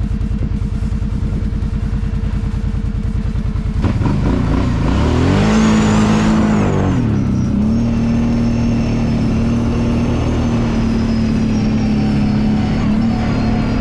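Kawasaki Brute Force 750 ATV's V-twin engine thumping at low speed with evenly spaced firing pulses. About four seconds in it revs up, its pitch rises and dips around seven seconds, then it settles to a steady pitch with a faint high whine above it.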